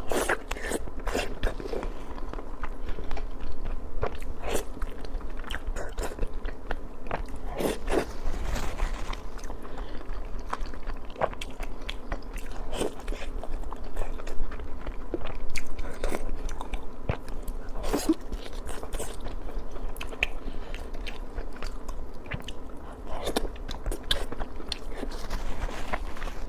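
A person biting and chewing chunks of sweet pork belly in spicy sauce, with a steady run of small clicks and crunches.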